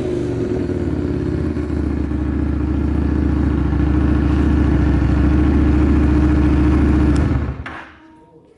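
Honda Steed 400's V-twin engine idling steadily through an aftermarket Supertrapp megaphone muffler, with no abnormal noise. It is switched off about seven and a half seconds in, and the sound dies away quickly.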